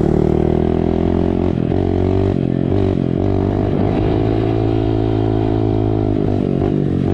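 Small dirt bike engine running while being ridden, its revs dropping and rising again a few times as the throttle is eased off and opened.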